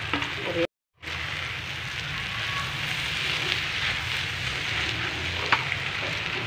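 Maggi noodles with egg frying in a non-stick pan, a steady sizzle as they are tossed and stirred, with a few light scrapes. The sound cuts out completely for a moment just under a second in.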